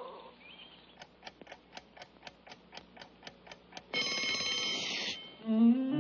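Cartoon sound effect of an alarm clock ticking, about four ticks a second, then its bell ringing loudly for about a second to wake the bird early. Orchestral music comes in near the end.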